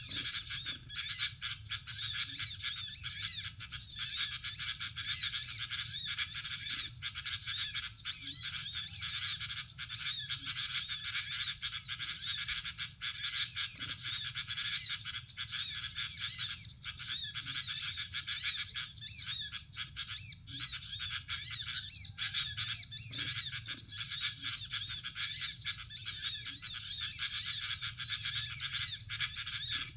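Small birds chirping without a break, a dense run of rapid high-pitched twittering calls repeating over and over.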